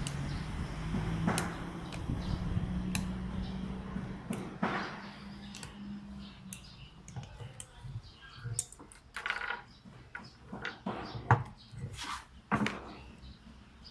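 Sharp, irregular clicks and taps of metal tools and small rifle parts being handled while an AR-15-style electric airsoft rifle is taken apart. A low steady drone runs under the first half and fades out about six seconds in.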